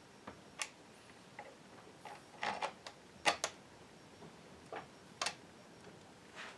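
Irregular light clicks and knocks of tools and metal chainsaw parts being handled, about a dozen at uneven intervals, the loudest a little past the middle.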